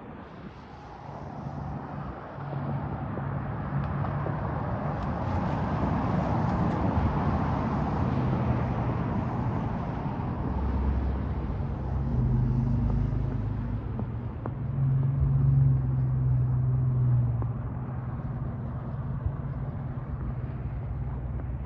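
Road traffic on a snowy street: tyre noise from a passing car swells and fades, and a low engine hum grows loudest about three quarters of the way through as another vehicle passes close.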